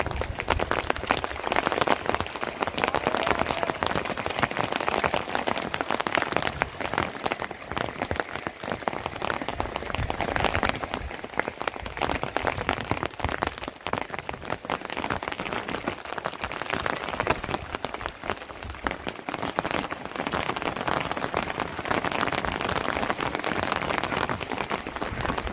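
Steady rain falling, a dense even hiss of drops that keeps up without a break.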